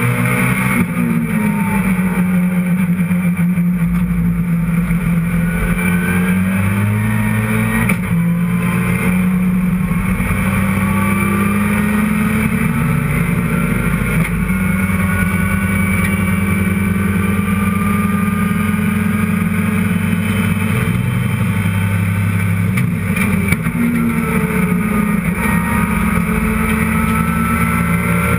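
Mitsubishi Lancer Evolution IX race car's turbocharged four-cylinder engine under load on track, heard from inside the cockpit. Its pitch climbs steadily and drops back at each gear change.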